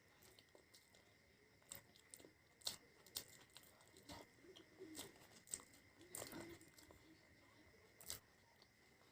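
Close-up chewing of fried food, with about a dozen irregular crisp crunches and mouth clicks.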